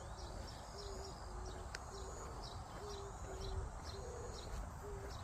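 A distant bird hooting: short, low, even notes in pairs, repeated several times, with faint high chirps of other birds.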